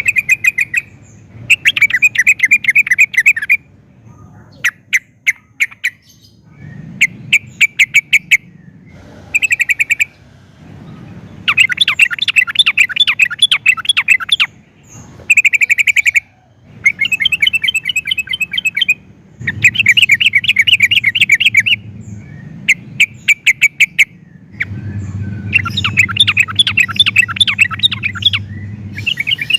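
Yellow-vented bulbul (trucukan) singing energetically: phrases of fast, bubbling chattering notes, each one to three seconds long, repeated about a dozen times with short pauses between.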